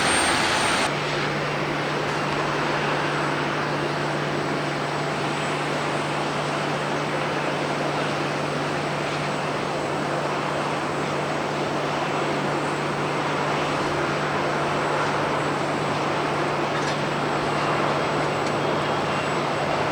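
Jet airliner engines running, a steady, dense noise with a constant low hum underneath. The sound changes abruptly about a second in, as at a cut between clips.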